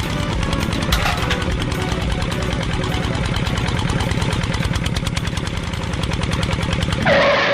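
A small engine running steadily with a fast, even pulsing beat. Near the end there is a short louder rush of noise, then the sound cuts off suddenly.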